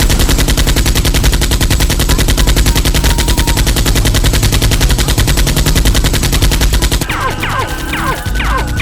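Rapid automatic gunfire sound effect, a continuous stream of shots. About seven seconds in it gives way to a series of short falling whistling tones.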